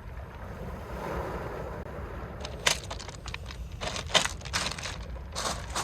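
Mediterranean waves washing up a pebble beach: a rushing wash of water, then from about halfway a rattling crackle of pebbles tumbling in the surf, with a couple of louder clacks.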